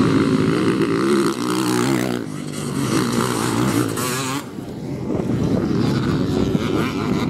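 Motocross motorcycle engines revving, their pitch rising and falling over and over as the bikes accelerate and shift on the track, with the sound easing briefly around two seconds and four and a half seconds in.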